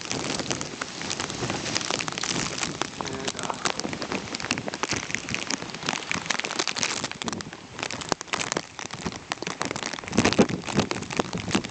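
Heavy rain coming down, with many drops ticking sharply on the plastic sheet wrapped over the camera, growing louder for a moment near the end.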